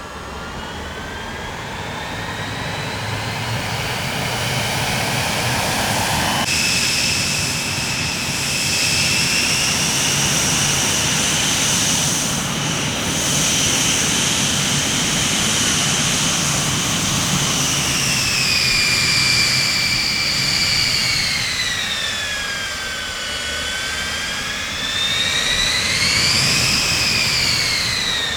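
Jet aircraft engines running with a high turbine whine that climbs, holds steady, sags about two-thirds of the way in, then swells again briefly near the end.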